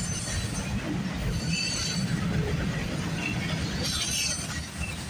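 Freight train cars rolling past close by: a steady low rumble of steel wheels on the rails, with a faint high-pitched wheel squeal now and then.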